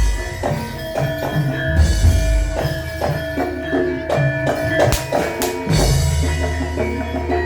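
Live Javanese traditional percussion music for an imblig kuda lumping dance: drums strike a steady beat over ringing pitched metal tones, with deep booming strokes every few seconds.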